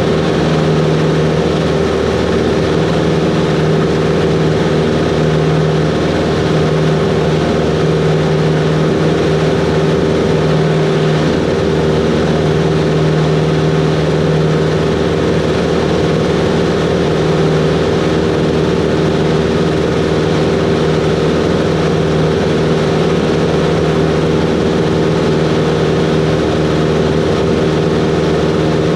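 Cessna 140's piston engine and propeller running steadily, a constant loud drone with no change in speed.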